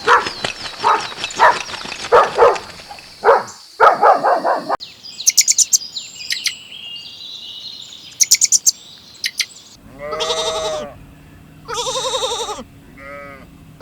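Farm animal calls in turn: about four seconds of short, rough calls, then birds chirping in quick, high bursts, then a sheep bleating three times in a wavering voice, the last bleat short.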